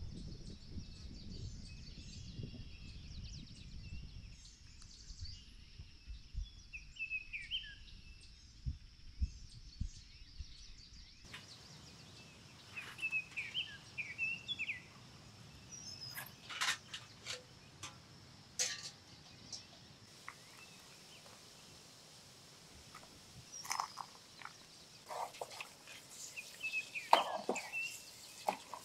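Outdoor ambience with scattered bird chirps. A low rumble runs through the first third. Later come a few sharp clicks and knocks.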